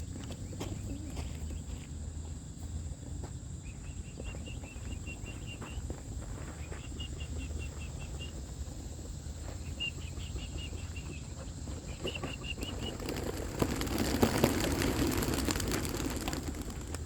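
A flock of young racing pigeons taking off together from the release box: a loud clatter of many wingbeats starts about 13 seconds in and lasts about three seconds. Before it come a few short runs of rapid high chirps.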